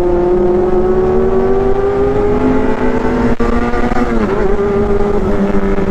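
Inline-four motorcycle engine running at high revs under load. Its pitch climbs slowly for about four seconds, drops as the revs fall just after that, then holds steady.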